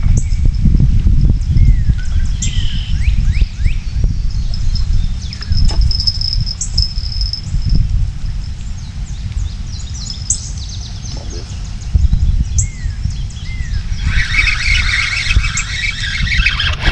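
Birds chirping and calling over a steady low rumble of wind on the microphone. About fourteen seconds in, a dense high whirring starts and runs almost to the end: a fishing reel's drag paying out line as a catfish takes the bait.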